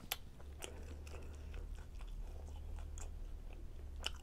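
Close-miked chewing of a chicken fajita, with soft wet mouth clicks scattered through it and two sharper clicks, one just after the start and one near the end. A steady low hum lies underneath.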